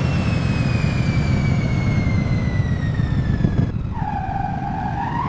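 Cartoon airplane sound effect: a whistling tone slowly falling in pitch over a low engine rumble, then, about four seconds in, the rumble drops away and a lower whistle rises slightly in pitch.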